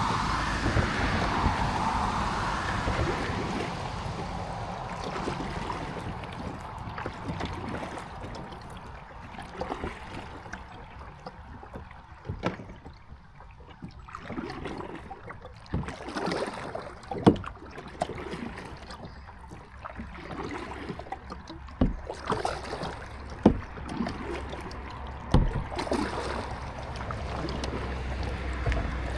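Kayak being paddled: the paddle blades splash into the water every few seconds, with a few sharp knocks among the strokes. A steadier rushing noise fills the first few seconds and fades by about five seconds in.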